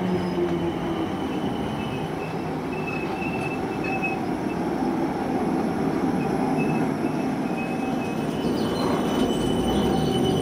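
Passenger train running along the track, with steady wheel-on-rail noise and a thin high squeal that comes and goes; the noise grows a little louder near the end.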